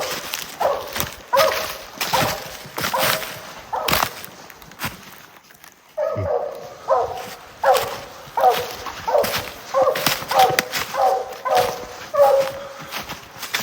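Treeing walker coonhounds barking steadily at a tree, short barks coming about one and a half a second with a brief break near the middle: the hounds are treed on a raccoon.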